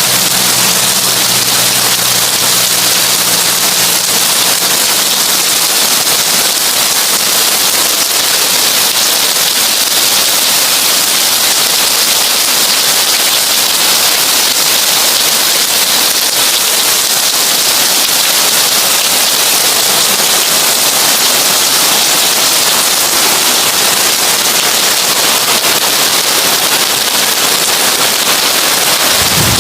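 Heavy rain on a tin roof: a dense, steady patter and hiss. A low hum sits under it at first and fades out within the first few seconds.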